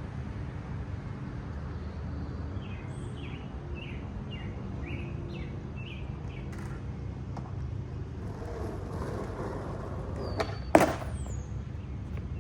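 Steady low outdoor rumble, with a bird chirping in a quick run of short falling notes about three to six seconds in. Near the end a skateboard deck hits the pavement with a sharp clack, the loudest sound.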